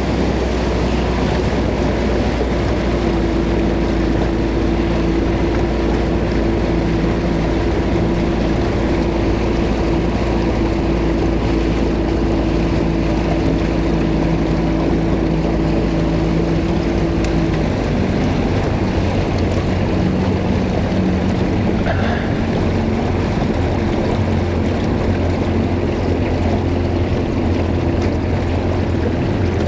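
Small boat's outboard motor running steadily under way, with wind and water noise; the engine note changes about two-thirds of the way through.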